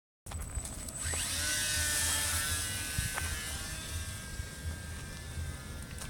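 Small electric motor of a radio-controlled model aircraft spinning up, its whine rising in pitch about a second in and then holding steady, with a low rumble underneath and a single click about halfway.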